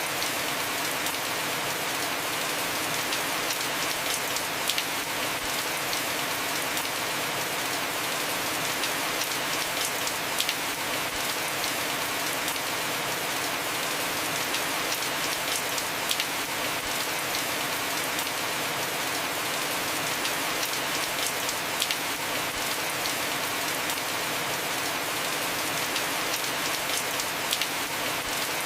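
Heavy rain falling on a roof, a dense, even hiss, with a sharper drip tick about every six seconds.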